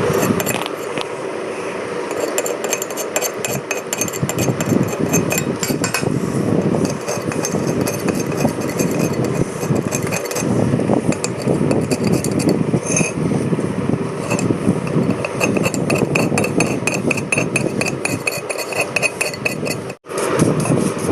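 Rusty steel 3-jaw chuck parts being cleaned in diesel: many quick metallic clinks and scrapes as the pieces are handled and scrubbed.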